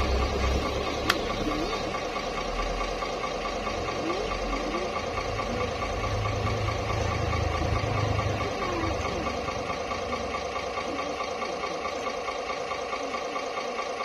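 RC truck's simulated engine sound idling steadily, with a single click about a second in and a deeper rumble swelling briefly around the middle.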